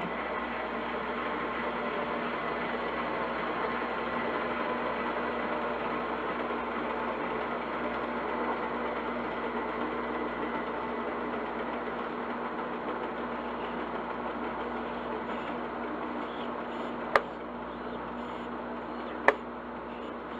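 Long-unmaintained OS 61SF glow engine of an RC helicopter running steadily at idle, slowly fading. Two sharp clicks come near the end, about two seconds apart.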